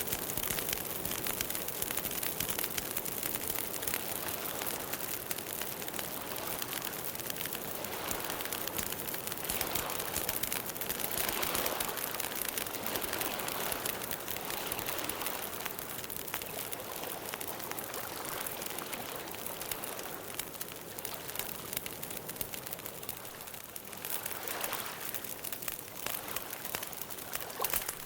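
Campfire crackling and hissing, a dense run of small pops and snaps over a steady hiss.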